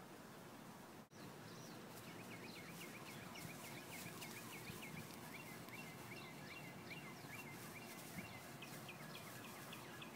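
Faint outdoor background noise with a bird chirping: from about two seconds in, runs of short, high, quickly repeated chirps, several a second.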